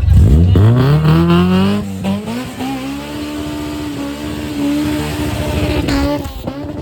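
A car engine revved hard: the pitch climbs quickly over about two seconds, holds at high revs for about four seconds, then drops off near the end. Loud.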